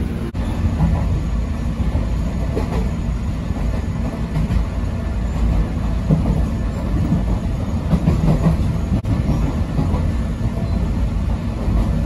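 Commuter train running on the rails, heard from inside: a steady low rumble with occasional clicks of the wheels over rail joints and points.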